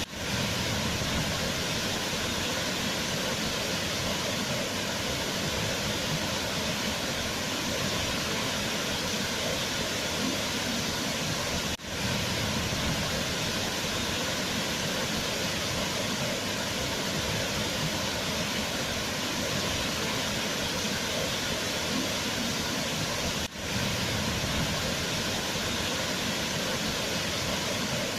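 Waterfall: water falling and rushing steadily, with a brief dip in level twice, about twelve seconds apart.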